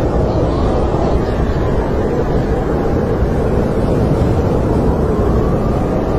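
Snowstorm wind blowing steadily in a low rush, with a faint whistle that rises and falls in pitch.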